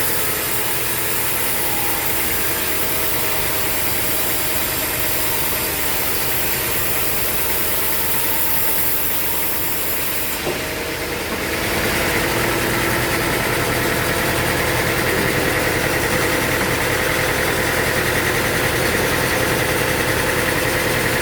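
Sawmill machinery running steadily with an engine-like hum. The sound changes abruptly about ten seconds in.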